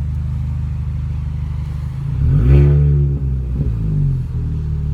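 Straight-piped 2004 Mini Cooper S (R53) supercharged 1.6-litre four-cylinder idling, then revved once about two seconds in, climbing and falling back, with a smaller second blip a second later before it settles to idle.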